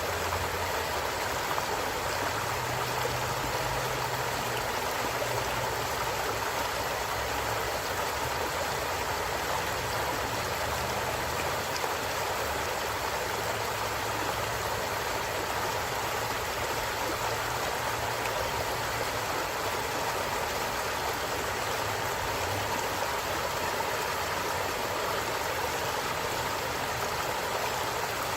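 A forest stream running steadily: an even, unbroken rush of flowing water, with a faint low rumble beneath it.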